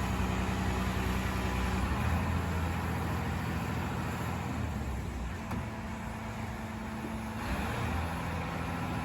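Heavy diesel engine running steadily, its pitch shifting slightly about two seconds in and again near the end.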